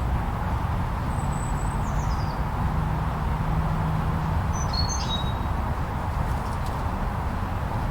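Steady wind noise of a snowstorm, even and unbroken, with a few high bird chirps on top: a falling whistle about a second in and a couple of short notes around five seconds in.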